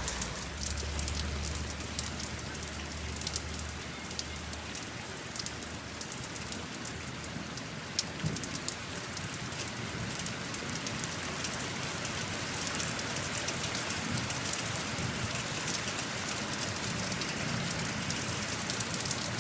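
Steady rain falling, with the patter of many separate drops striking a surface.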